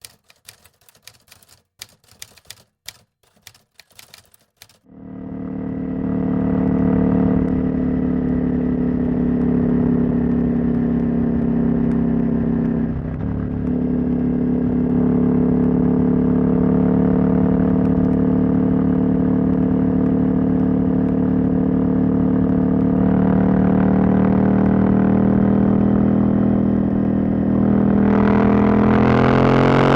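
A few sharp clicks and knocks, then about five seconds in the decatted Husqvarna Norden 901's parallel-twin engine comes in and runs steadily at idle, its catalytic converter removed. Near the end the engine note rises as it revs up.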